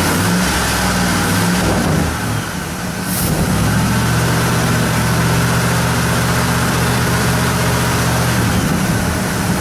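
1972 Ford Custom's engine running steadily just after a cold start, an engine the owner says needs a rebuild. It goes briefly quieter about two seconds in, then runs on evenly.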